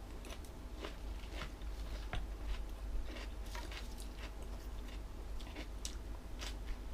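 Close-up mouth sounds of someone chewing a crunchy mouthful of jellyfish and seaweed salad: wet, irregular crunches and smacks.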